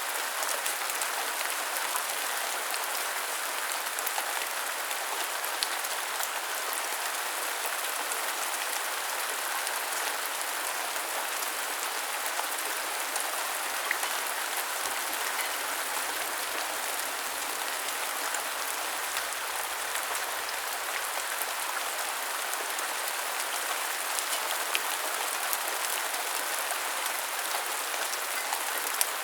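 Steady rain falling on hard surfaces, an even hiss with scattered drop ticks.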